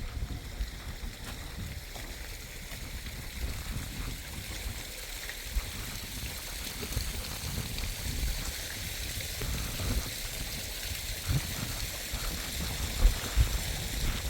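Steady rushing of running water, with uneven low rumbles of wind buffeting the microphone and a few louder knocks near the end.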